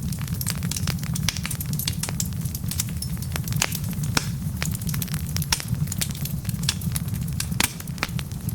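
Wood fire burning, with many sharp, irregular crackles and pops over a steady low rumble of the flames.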